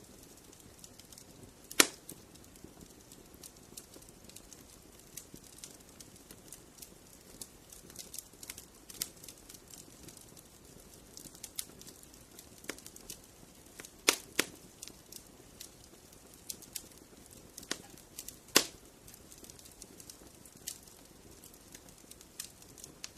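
Fireplace fire crackling steadily, with irregular small snaps and a few louder pops.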